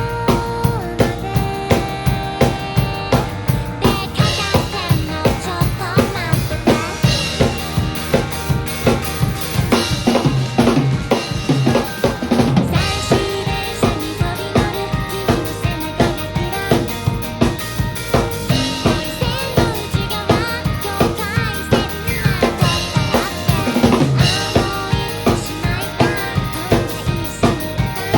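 Acoustic drum kit played along to a pop-rock song: a steady beat of kick and snare hits, about two a second, with cymbals over the song's recorded band.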